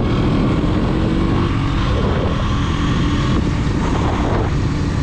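KTM Duke 200's single-cylinder engine running steadily under way, under heavy wind rush on the microphone.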